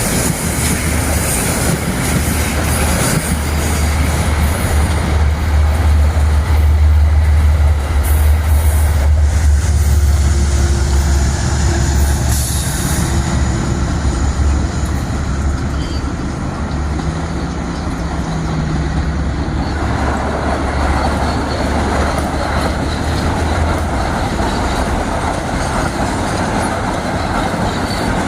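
A Metro-North commuter train running past on the tracks: a steady, loud low rumble with wheel-on-rail noise and scattered clicks. The rumble dies away about 24 seconds in.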